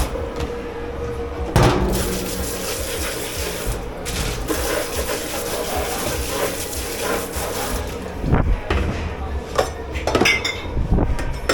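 Dish-pit work: a sharp knock, then water spraying steadily for about six seconds, then dishes and utensils clattering several times near the end, over a faint steady machine hum.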